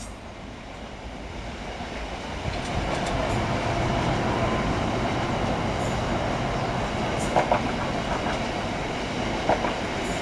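A freight train of coal hopper wagons rolling past, its rumble building over the first few seconds and then holding steady. Wheels clack sharply over rail joints a few times in the second half.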